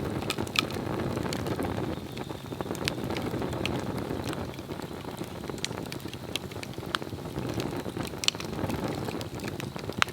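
Swedish torch log burning: a steady low rush of flame with scattered sharp crackles and pops, one louder pop near the end.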